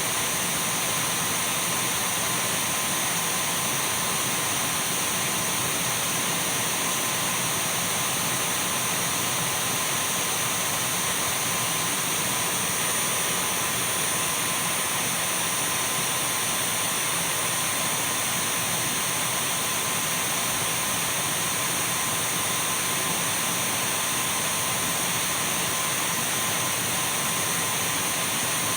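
Dyson V12 cordless stick vacuum running steadily: an even rush of air with a thin, constant high whine from the motor, unchanging throughout.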